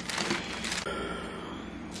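Parchment paper crinkling as a rolling pin rolls dough out thin beneath it, with a few light knocks.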